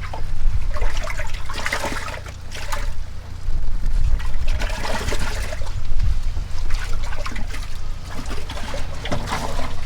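Water splashing and trickling in a bass boat's livewell in irregular bursts, as fish are handled in the water, over a low steady rumble.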